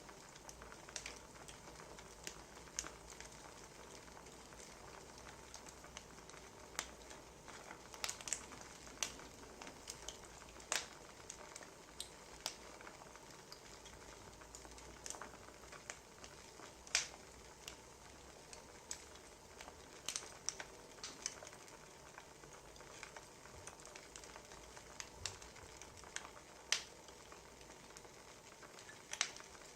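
Wood fire crackling: a soft steady hiss with irregular sharp pops, a few of them louder.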